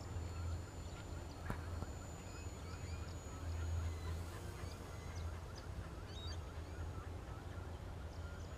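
Birds calling in short, scattered chirps over a low rumble that swells and fades, with a faint steady high tone.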